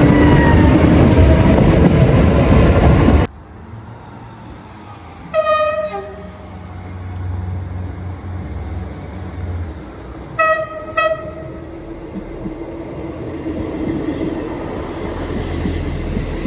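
A train runs past loudly with a falling whine, then the sound cuts off suddenly. After the cut a train horn gives one blast, and a few seconds later two short toots. Near the end the low rumble of an approaching train builds.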